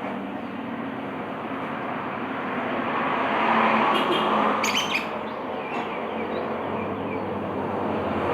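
Steady rushing noise, like passing traffic, that swells in the middle. A lovebird gives a few short, high chirps about four to five seconds in.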